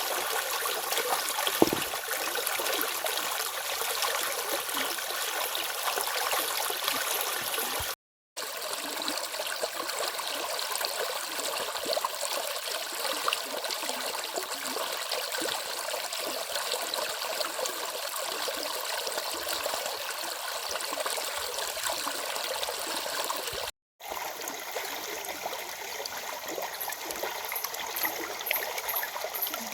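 Flowing water of a small stream, a steady rushing and babbling. It cuts out to silence for a split second twice.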